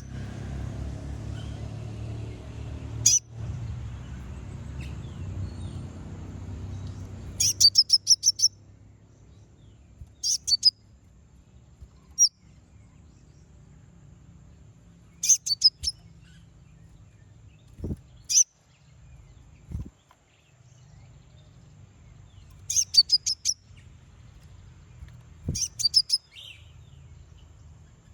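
Konin (kolibri ninja) sunbird calling in short bursts of rapid, high chips, a burst every few seconds. A low steady rumble underneath stops about a quarter of the way in.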